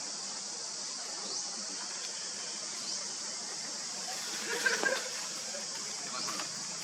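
Steady high-pitched insect drone with short rising chirps repeating about every one and a half seconds. A brief louder call cuts in a little past the middle.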